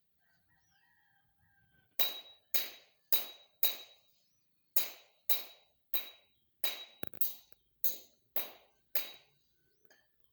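Rhythmic sharp strikes of a tool, about two a second: four, a pause of about a second, then about eight more, each with a short ring.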